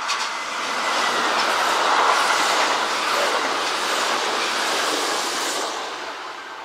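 Kintetsu electric train running past on the track, the noise of its wheels on the rails swelling to its loudest about two seconds in and fading away near the end.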